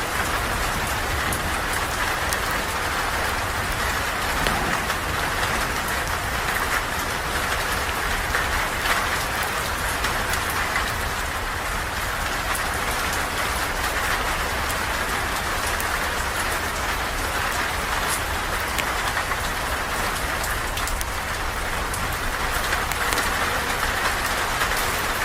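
Steady rain: an even, continuous hiss with scattered small drop ticks.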